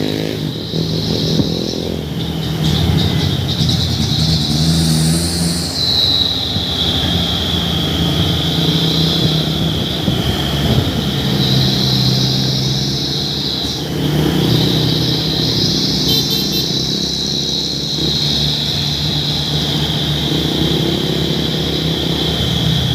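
Diesel dump truck engine running through an aftermarket 'Cung' exhaust, with a steady high-pitched whine sitting over the low engine note.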